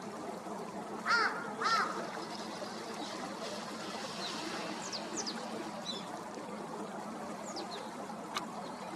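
Steady trickle of running water, with two loud harsh bird calls about a second in, and a few thin, high, falling calls of small birds later.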